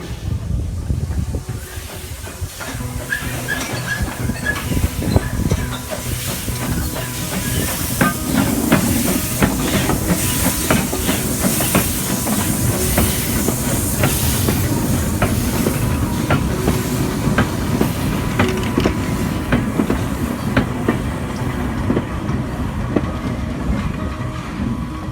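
Steam tank-engine train running: a steady rumble with many sharp clicks of wheels over the track, and a hiss of steam that swells in the middle and fades toward the end.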